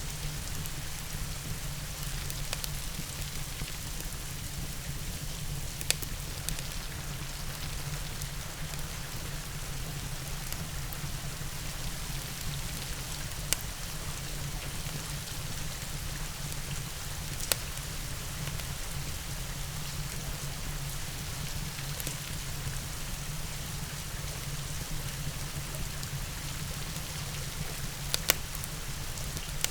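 Steady rain mixed with a fireplace: an even hiss of rain over a low, constant rumble, with a handful of sharp pops scattered through, about one every four to five seconds.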